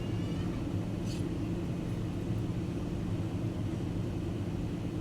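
Steady low drone of an airliner in flight, its engine and airflow noise heard from inside the passenger cabin, with a faint click about a second in.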